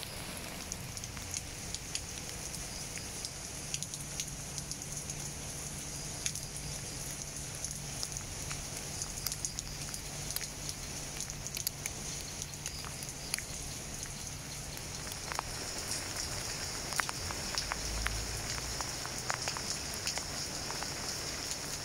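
Rain falling on plant leaves: a steady hiss with many separate drops ticking close by. The drops grow more frequent in the second half.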